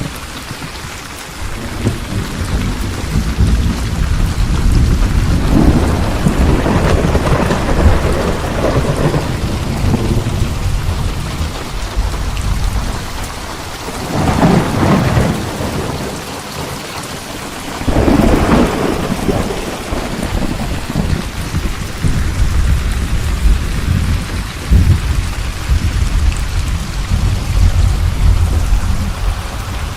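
Steady rain with thunder rumbling low for most of the time, and two louder thunderclaps close together around the middle.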